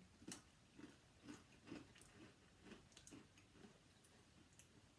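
Faint chewing of a cheese-flavoured snack, soft irregular crunches and mouth clicks every half second or so.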